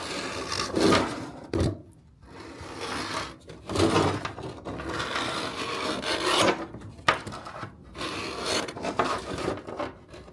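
Steel bladesmith scribe scratching a marking line into the fiber-metal shell of a pipeliner welding hood, in a series of scraping strokes with short breaks between them.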